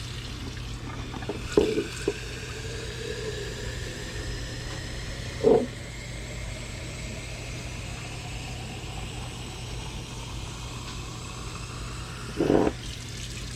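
Water running steadily from a kitchen faucet into a mason jar, its pitch rising slowly as the jar fills. A few short knocks break in about a second and a half in, again near the middle, and near the end.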